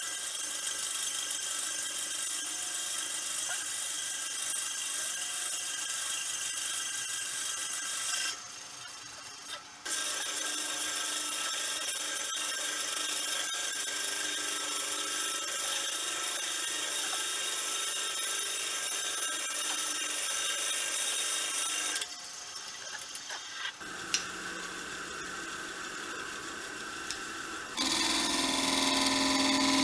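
Wood lathe running while a tool bores into the spinning blank of stabilized sticks cast in resin, a steady scraping hiss over the motor's whine. The cutting pauses briefly about eight seconds in and again about 22 seconds in. Near the end it turns louder, with a low hum.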